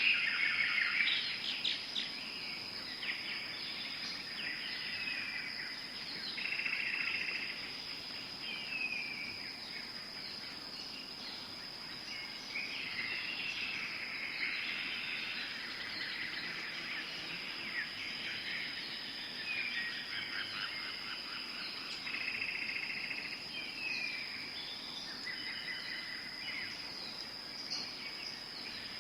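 Tropical forest ambience: a steady high insect drone runs under many birds calling, with short repeated whistled phrases, descending notes and chattering.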